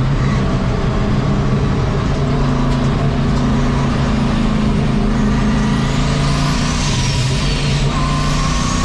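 Turbocharged 1951 Chevy race truck's engine running steadily at speed on track. A high-pitched whine rises and falls twice in the second half.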